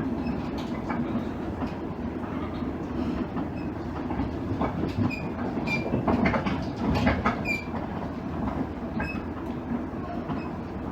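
Inside a JR East KiHa 110 series diesel railcar running along the line: a steady rumble of the car, with wheels clicking over rail joints. Several brief high squeaks come in the middle, where it is loudest.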